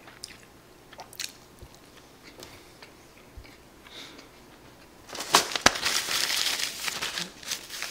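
Close-up chewing of a nori-wrapped rice ball, with small wet mouth clicks. About five seconds in, a louder paper-towel rustle takes over as a face is wiped, with sharp crinkles.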